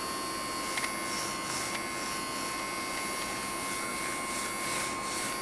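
Henry desk vacuum's small battery-powered motor running with a steady whine over a hiss, with a few faint ticks. It is weak and barely picks anything up, a sign that its batteries are nearly dead.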